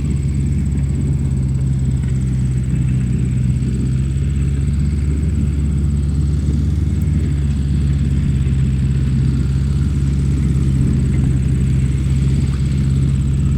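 Mini handmade tractor's motor running steadily with an even low hum and a thin high whine, no change in speed.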